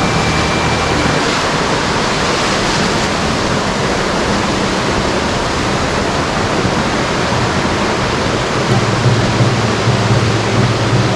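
Waterfall rushing steadily, a constant roar of falling water. A low drone joins in near the start and again about eight seconds in.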